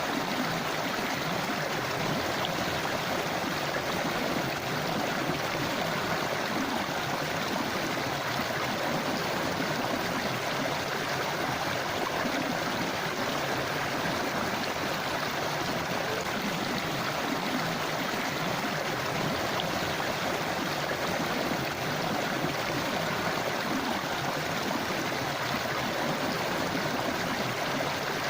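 Forest river flowing over rocks, a steady rushing and gurgling of water.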